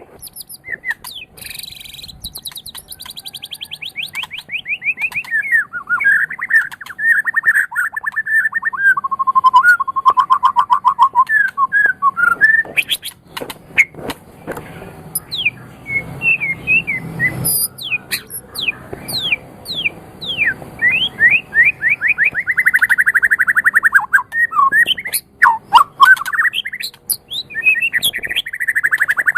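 White-rumped shama (murai batu) singing a long, varied song: clear whistled phrases, rapid trills and quick falling notes, broken by short sharp clicks and high thin trills.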